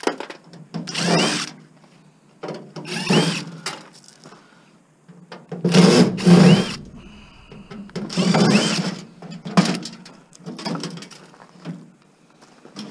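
Power drill backing screws out of a microwave's sheet-metal casing, run in short bursts of under a second, each rising in pitch as the motor speeds up, with a few shorter bursts toward the end.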